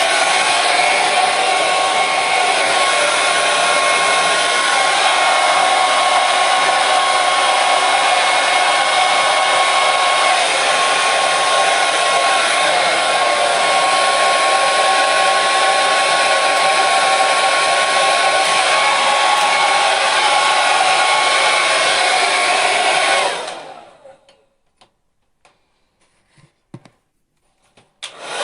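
Electric hair dryer running steadily: a loud rush of air with a faint steady whine. About 23 seconds in it stops and winds down over a second, leaving a few seconds of near silence with faint clicks, then starts again abruptly near the end.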